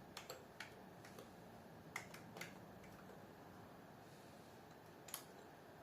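A few slow, separate key presses on a computer keyboard over faint background hiss: a handful of clicks in the first two and a half seconds, then one more about five seconds in.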